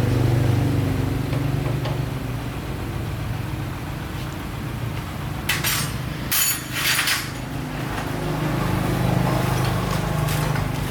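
Small motorbike engine idling steadily. A few sharp metallic clinks of tools come about halfway through.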